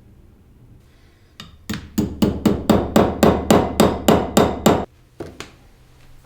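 A hammer strikes repeatedly: about a dozen sharp blows at roughly four a second, each ringing briefly, followed by two lighter taps.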